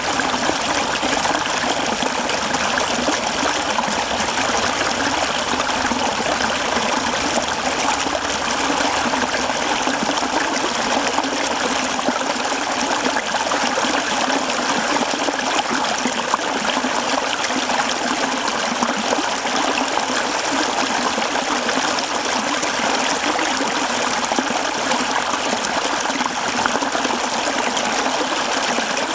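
Mountain stream flowing over rocks: a steady, unbroken rush and trickle of water.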